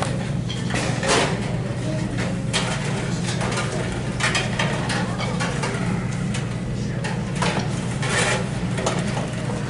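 Scattered clatter and knocks of chairs, music stands and instruments being moved as band students take their seats, over a steady low hum.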